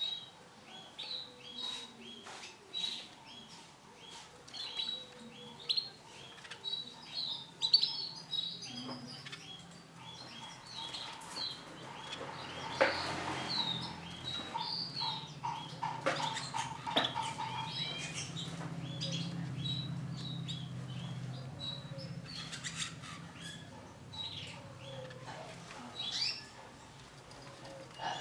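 Female canary giving short, repeated chirping calls throughout, with scattered light clicks. A brief rush of noise comes about halfway, and a low hum runs through the middle stretch.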